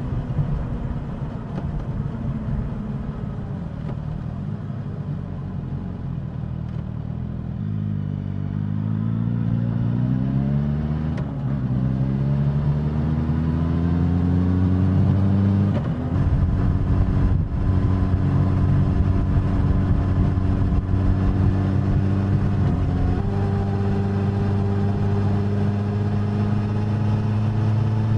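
Suzuki GSX-S1000's inline-four engine and exhaust under way, running steadily, then climbing in pitch as it accelerates and dropping abruptly about halfway through with an upshift, before settling into a steady cruise.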